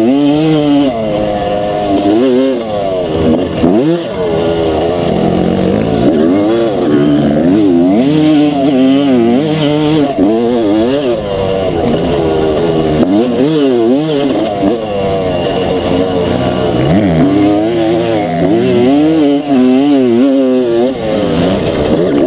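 Honda CR250's single-cylinder two-stroke engine revving hard, its pitch climbing and dropping again and again as the throttle is worked through corners and straights, heard from a camera mounted on the bike's handlebars.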